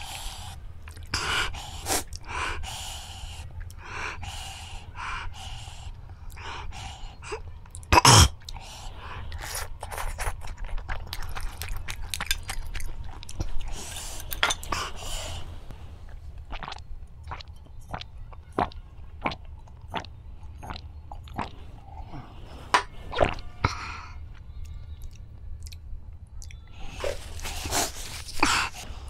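Close-up eating noises of a person working through spicy dry noodles: wet chewing with many small mouth clicks, and sniffs and sharp breaths. A single loud thump about eight seconds in. Near the end, a few seconds of breathy, hissing noise as a tissue is held to the nose.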